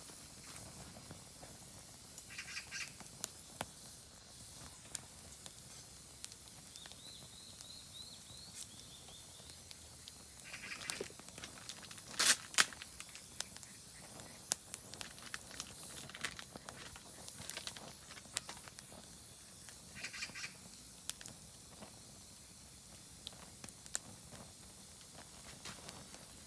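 Oak firewood crackling and popping in a campfire, with one loud pop about midway. Birds call over it: a short call three times, several seconds apart, and a quick run of high chirps early on.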